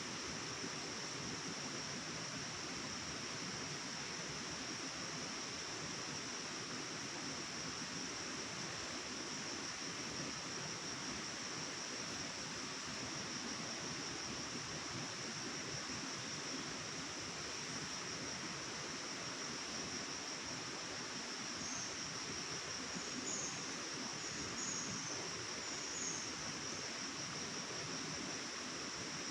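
Forest ambience: a steady high-pitched insect drone over an even rushing hiss of flowing water, with a few short high chirps near the end.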